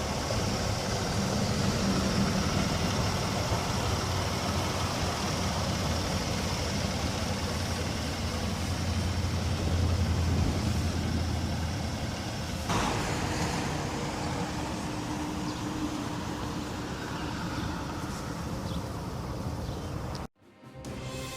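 2016 Kia Sorento SX's V6 engine running steadily. The sound changes abruptly about thirteen seconds in, and it cuts off suddenly near the end.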